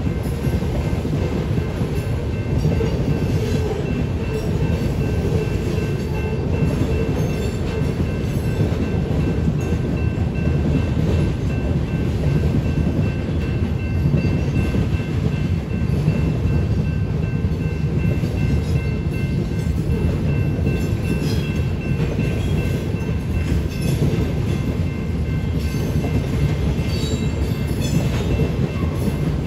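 Covered hopper cars of a Union Pacific grain train rolling past: a steady, unbroken rumble of steel wheels on rail, with a few faint steady high-pitched tones above it.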